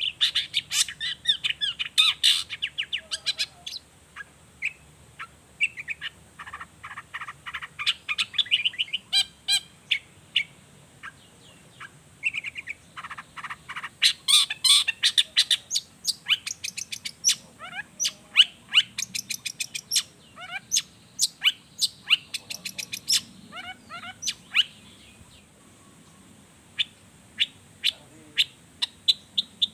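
Long-tailed shrike (cendet) singing a fast, varied song of sharp chirps and rapid trills, with a short lull near the end.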